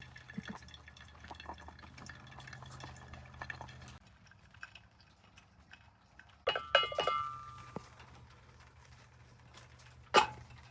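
Camp cookware and utensils being handled: scattered small clicks, a cluster of metallic clinks that ring briefly about six and a half seconds in, and one sharp knock near the end.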